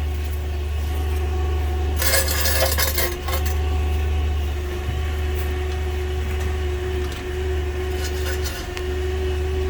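Forklift engine running steadily with a low hum. About two seconds in there is a short burst of metallic clinking and clattering, and a few light clicks come near the end.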